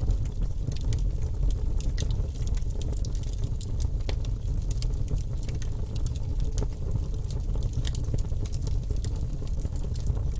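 Fire burning in a fireplace: a steady low rumble with many small, sharp crackles and pops scattered throughout.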